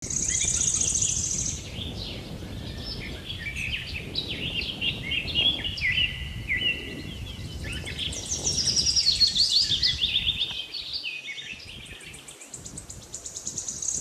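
Several songbirds singing together, with quick chirps and fast high trills that overlap throughout. Underneath is a low rumble that falls away about ten and a half seconds in.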